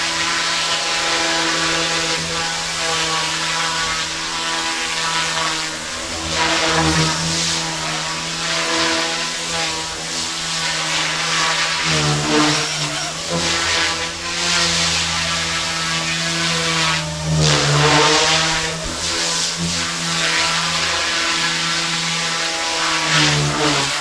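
Goosky S1 collective-pitch micro RC helicopter flying in hover, its motor and rotors making a steady high buzz. Three times the pitch dips briefly and swings back up as the pilot corrects.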